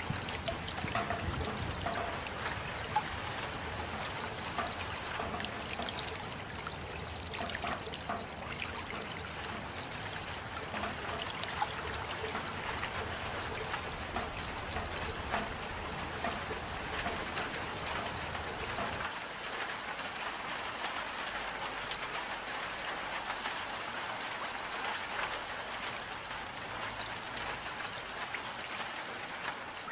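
Steady rain falling, with many small drops pattering and a trickle of running water. A low rumble underneath stops about 19 seconds in.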